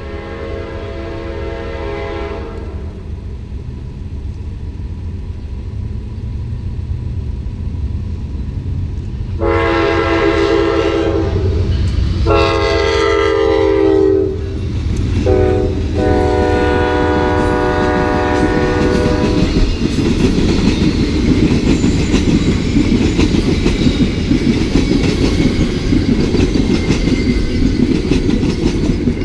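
Amtrak P42 diesel locomotive's multi-tone air horn: one blast fades out a couple of seconds in. About ten seconds in it sounds the long, long, short, long grade-crossing signal. The train then rolls past, slowing for a station stop, with a loud rumble and wheels clacking over the rail joints.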